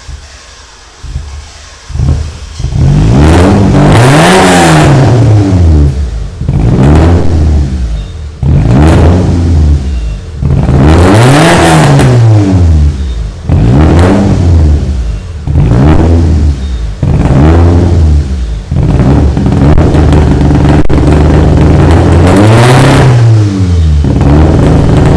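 Proton Wira's four-cylinder 4G93 engine revved repeatedly through a new full stainless-steel exhaust system. About two seconds in it gets loud, then the revs climb and drop back about eight times, roughly every two and a half seconds.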